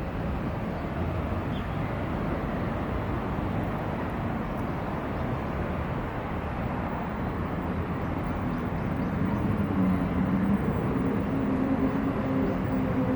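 Steady rumble of a vehicle, with an engine tone coming in about eight seconds in and rising slowly near the end.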